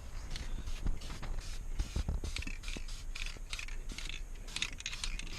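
Irregular mechanical clicking and scraping of small hard parts, growing denser and louder about halfway through.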